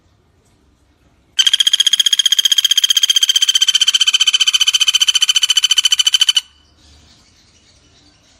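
Common flameback woodpecker (pelatuk bawang) giving one long, fast rattling trill of about five seconds, steady in pitch, starting about a second and a half in and stopping sharply.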